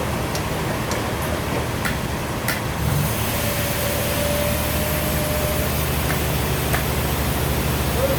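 Sawmill machinery running steadily, an engine pulsing low beneath a noisy hiss that grows louder about three seconds in. A thin steady whine sounds for about two seconds in the middle.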